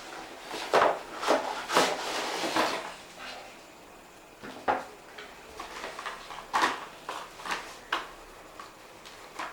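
Irregular clicks, knocks and short scraping rustles of small hard objects and packaging being handled, busiest in the first few seconds and again midway.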